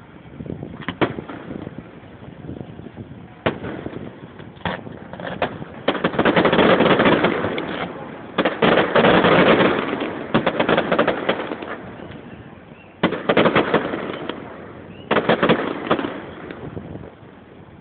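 Fireworks going off: scattered single bangs, then dense crackling salvos a few seconds long through the middle, with two shorter bursts of crackle toward the end.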